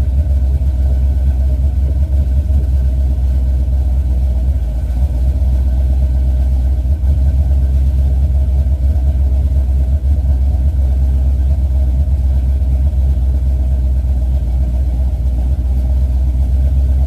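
Cammed 426 cubic-inch Mopar V8 idling after a cold start, with a deep, steady, choppy cam lope that does not rev up or down.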